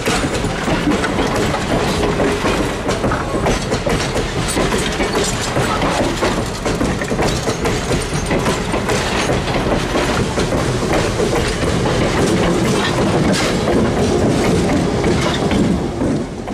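Riveted steel passenger coaches rolling past close by, their wheels clicking over the rail joints over a steady rumble. The sound stops abruptly at the very end.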